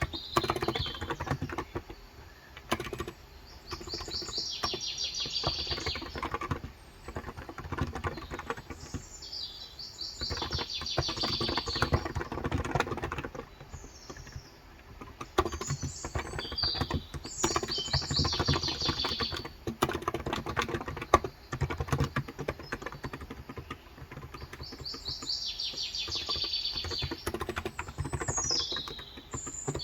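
Typing on a COX Endeavor tenkeyless keyboard with 35 g electrostatic capacitive (non-contact) switches: a continuous run of soft keystrokes. A songbird sings rapid, high trilled phrases every few seconds over the typing.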